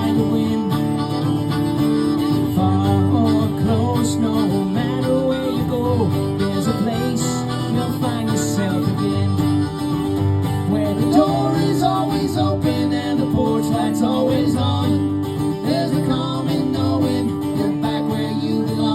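Live country-folk band music: steadily strummed acoustic guitar chords with a bending melody line above them, an instrumental passage without singing.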